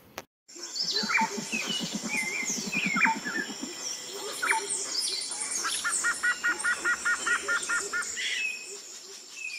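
Several birds singing and chirping in a woodland, with a fast repeated trill a little past the middle and a low rapid pulsing in the first few seconds.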